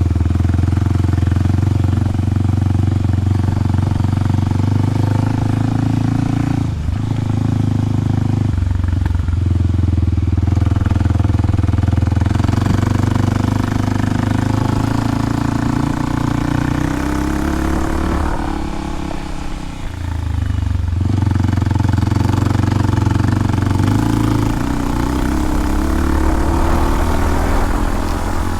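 Kawasaki KLX300's single-cylinder four-stroke engine running through a Delkevic 10-inch oval slip-on exhaust. The engine note dips briefly twice early on, rises in pitch under acceleration in the second half, and falls off for a moment about twenty seconds in.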